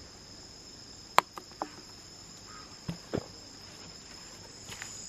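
Rainforest insects chirring in a steady high-pitched drone, broken by a few sharp clicks and knocks about a second, a second and a half, and three seconds in.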